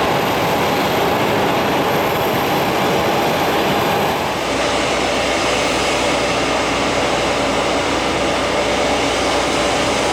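Business jet engines running: a loud, steady rush of jet noise. About four seconds in, a high thin whine drops out and a deeper rumble takes over.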